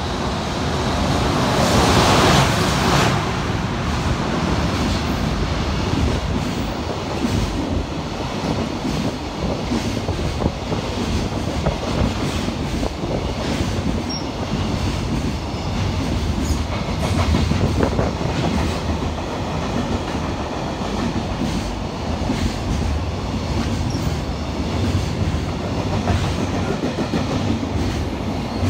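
An EH500 twin-unit electric locomotive passes close by, loudest about two seconds in. It is followed by a long train of container wagons rolling past with a steady rumble and rapid wheel clatter over the rail joints.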